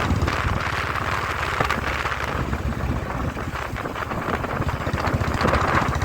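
Motorcycle engine running steadily while riding, its rapid firing pulses carrying under a rush of wind noise on the microphone.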